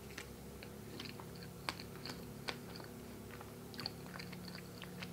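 A person chewing a soft doughnut with peanut butter topping and raspberry jam filling: wet mouth clicks and smacks, a few a second, at an uneven pace.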